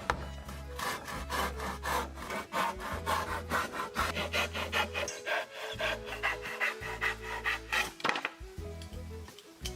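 A hand tool scraping back and forth on wood in quick, regular strokes, about two to three a second, which stop about eight seconds in.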